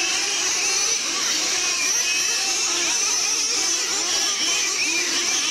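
Several nitro-powered RC monster trucks racing, their small glow engines whining and revving up and down, overlapping one another.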